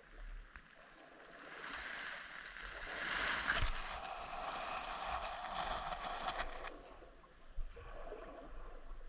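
Rushing, gurgling water noise picked up by an underwater camera's microphone. It swells up about a second and a half in, is loudest about halfway through, and fades away a few seconds later.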